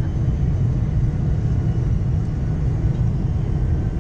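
Steady low rumble of engine and cabin noise inside a Boeing 747-400 airliner.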